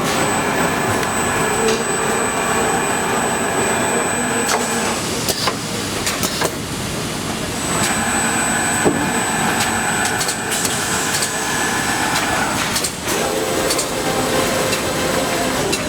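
Motor-production machinery running in a factory: a steady mechanical whir with a whining tone that stops about five seconds in and starts again about three seconds later, dropping out again briefly near the end, with scattered sharp clicks.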